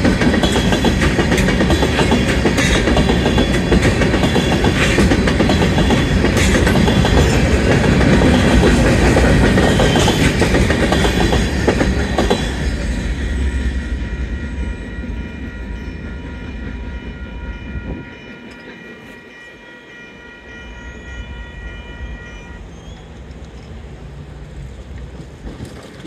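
Freight cars rolling over a grade crossing with clickety-clack from the wheels on the rails, until the end of the train passes about twelve seconds in and the rumble fades. The crossing's warning bell keeps ringing steadily on its own and cuts off abruptly about ten seconds later as the signal clears.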